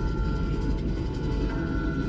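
Steady low rumble of a long train passing, with a few faint steady tones above it.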